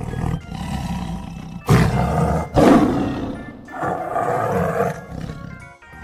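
Tiger roaring and growling: about four long, rough roars in a row, the loudest about halfway through.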